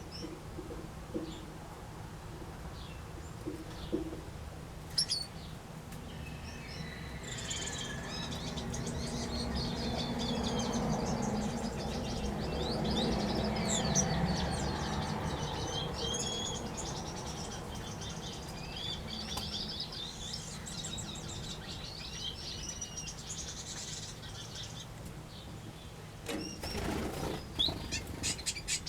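Small aviary finches and waxbills chirping and calling over one another in short high notes. A low rushing sound swells and fades through the middle, and a quick run of sharp ticks comes near the end.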